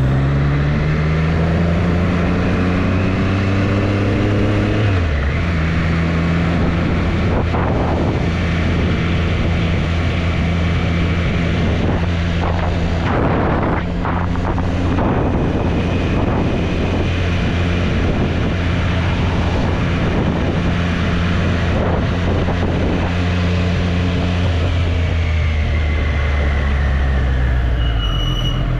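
Triumph Street Triple's inline three-cylinder engine under way: it pulls up in pitch for about five seconds, drops sharply at an upshift, then holds a steady cruise with wind rushing past, and falls in pitch near the end as the bike slows.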